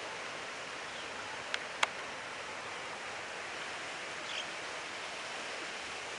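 Steady, even rushing background noise outdoors, with two short sharp clicks about a second and a half in.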